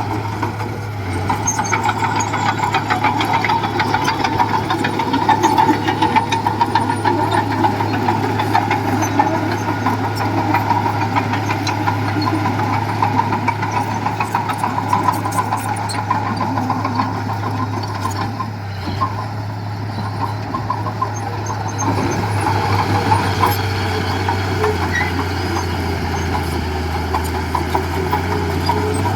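Diesel engine of heavy construction machinery running steadily under work. It eases slightly about two-thirds of the way through, then picks up again.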